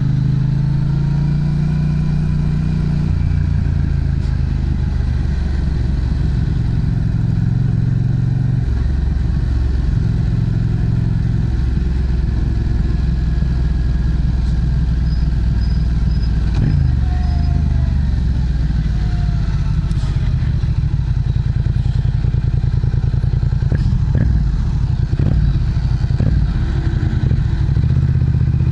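Yamaha MT-07's 689 cc parallel-twin engine running through an aftermarket Prunus muffler, with a steady exhaust note. The engine pitch shifts up and down in steps several times.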